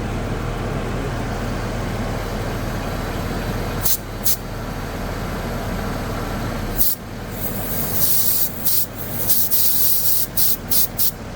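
Saturn Vue engine idling steadily while refrigerant hisses from a can tap and charging hose: two short spurts about four seconds in, then a run of quick hissing bursts from about seven seconds on, as the A/C system is charged.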